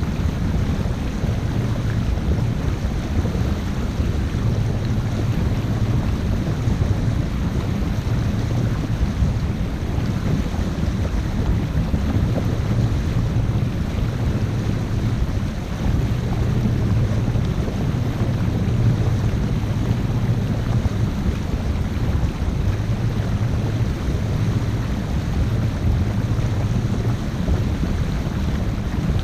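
Wind buffeting the camera microphone over the steady low drone of a 50-foot sail/motor boat under way.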